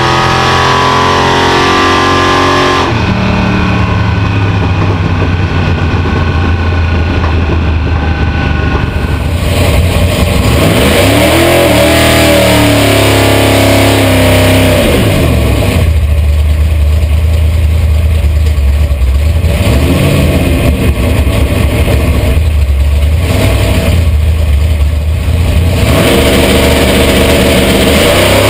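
Chevy nostalgia-gas drag car's engine revving hard during a burnout, heard from inside the cabin. Its pitch sweeps up and down about halfway through, then holds high with a few brief dips.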